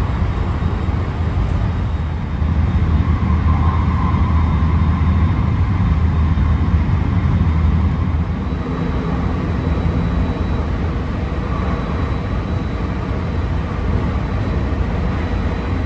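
Steady rumble of wheels on rails inside a moving electric commuter train running at speed, a little louder for a few seconds from about three seconds in. Near the end another train passes close alongside.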